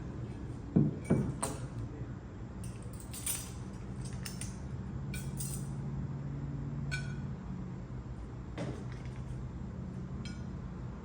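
Two sharp knocks about a second in, then scattered clicks and light clinks of hard household items being handled, over a steady low hum.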